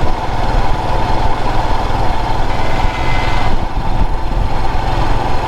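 Motorcycle engine running steadily while riding along a road, heard close up with a constant low drone and road noise.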